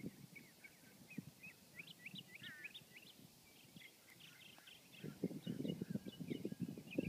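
Small birds chirping and twittering in quick short notes. About five seconds in, a low, uneven rumbling noise comes in over them and becomes the loudest sound.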